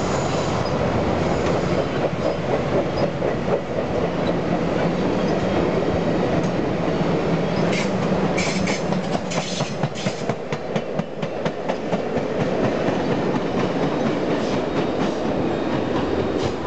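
Steel-wheeled passenger train cars rolling past at speed: a steady rumble of wheels on rail with the clickety-clack of wheel trucks over rail joints, sharpest and most rapid about eight to ten seconds in.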